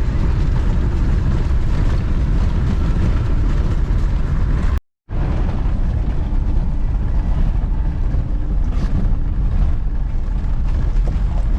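Old Land Rover's Tdi turbo-diesel engine running steadily as the vehicle drives along, loud and low. The sound cuts out completely for a moment about five seconds in, then carries on unchanged.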